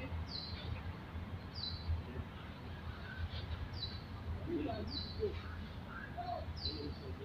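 A bird calling over and over, one short high note sliding down in pitch about once a second, over a steady low rumble of background noise.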